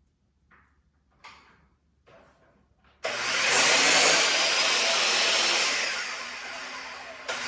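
A few faint handling knocks, then an electric tool motor starts abruptly about three seconds in and runs loud and steady with a rushing noise. It eases off, cuts out briefly near the end and starts again.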